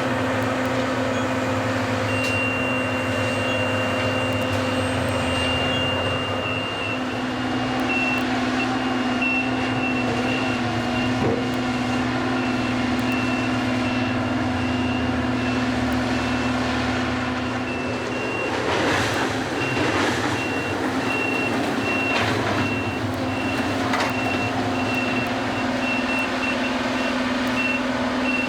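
Diesel machinery of a track renewal train running steadily, with a high-pitched warning alarm from a travelling gantry crane: first a held tone, then rapid beeping. A few metallic knocks come about two-thirds of the way through.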